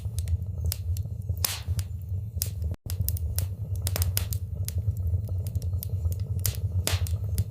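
Wood fire burning in a fireplace, crackling and popping irregularly over a steady low rumble of the flames. The sound drops out for an instant about a third of the way in.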